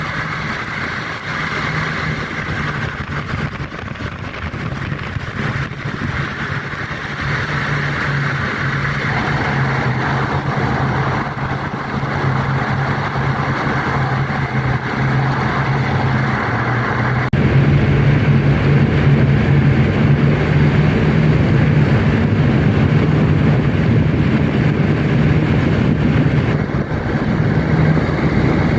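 A car driving on a road: a steady engine hum with tyre and road noise. It gets abruptly louder about two-thirds of the way through.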